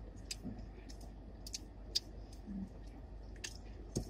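A person chewing and biting crunchy fried food close to the microphone, with irregular crisp crunches.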